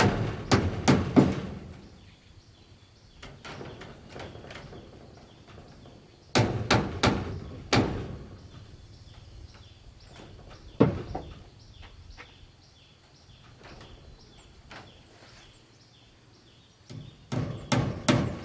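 Repeated blows of a hand tool striking wood, in bursts of several strikes with pauses of a few seconds between them.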